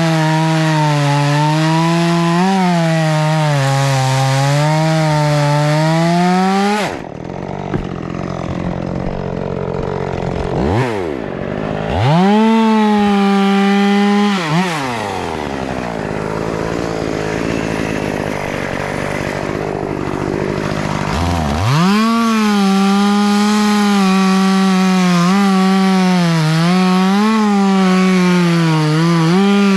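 Two-stroke chainsaw running at full throttle and cutting, its pitch dipping and recovering as the chain bites. About seven seconds in it drops to idle and is revved twice; from about 22 seconds it is back at full throttle, cutting again.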